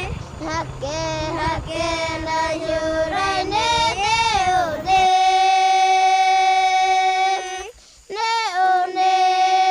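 A single high voice singing a song: wavering phrases that bend up and down, then a long held note, a brief break about eight seconds in, and a short phrase that settles on another held note.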